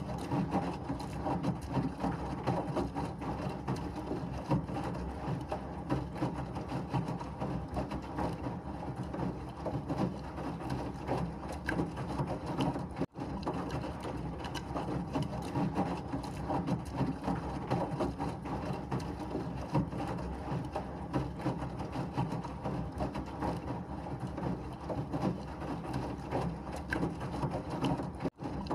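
Washing machine running, a steady churning and rattling drum noise used as white noise. It cuts out for an instant twice, once about halfway through and once near the end.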